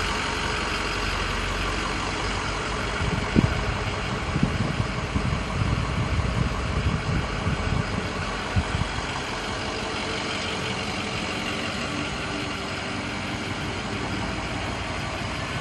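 2007 Ford F550 wrecker's engine idling steadily, with uneven low rumbles for several seconds in the middle.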